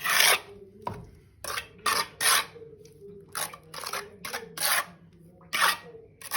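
Mortar being scraped and spread in a thin layer onto a brick: about a dozen short, uneven scraping strokes.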